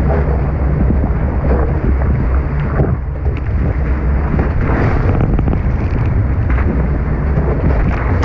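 Strong wind buffeting an action-camera microphone as a Tornado catamaran sails fast, with water rushing past the hulls. The sound is a loud, steady rumble with no breaks.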